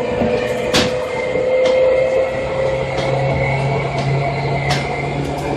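Seibu 2000 series electric train heard from on board while running, with a steady motor hum and a slowly rising tone over the running noise. Twice there is a sharp click of the wheels over a rail joint.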